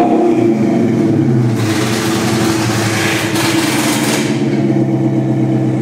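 2012 Dodge Charger SRT8's 6.4-litre Hemi V8 through a custom 3-inch exhaust. Its revs fall back from a throttle blip to a steady idle within the first second or so. A rushing hiss swells and fades over the middle few seconds while it idles.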